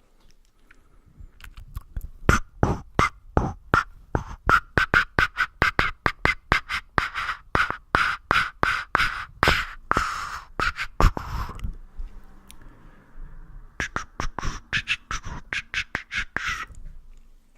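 Rapid close-miked ASMR clicking and tapping, about three to four sharp clicks a second, breaking about two-thirds of the way in for a few seconds of soft rustling, then starting again briefly.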